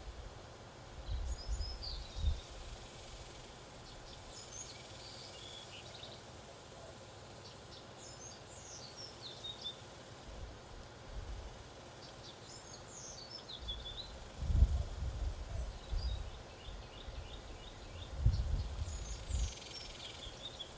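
Songbirds at a backyard feeder singing short, quick chirping phrases that repeat about every four seconds, over a faint outdoor background. A few bursts of low rumble, the loudest sounds here, come about a second in, around fourteen to sixteen seconds in, and again near the end.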